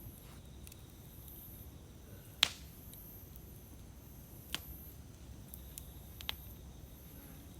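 Bonfire crackling: three sharp pops of burning wood, the loudest about two and a half seconds in, over a low steady rumble.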